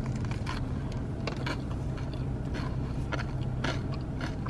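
Biting into a spicy chicken sandwich and chewing with mouth closed, with irregular crisp crunches from the corn nuts in the topping, over a steady low hum.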